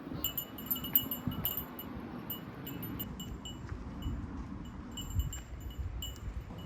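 Light metallic tinkling of small chimes, ringing in irregular clusters over a low rumble.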